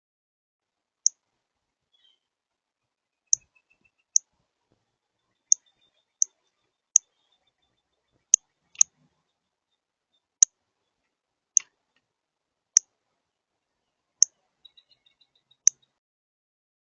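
A small bird at the feeder giving sharp, very short chip notes, about fourteen of them at irregular intervals of roughly a second, with a few faint thin twitters between them.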